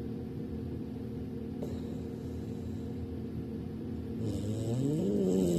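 English bulldog snoring in its sleep: a few seconds of quieter breathing over a steady low hum. Then, about four seconds in, a long snore rises in pitch and holds.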